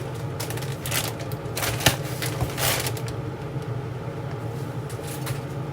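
Kitchen handling sounds: clicks, rustles and knocks as ingredients are put into a pot of boiling broth, with a sharp knock just under two seconds in, over a steady low hum.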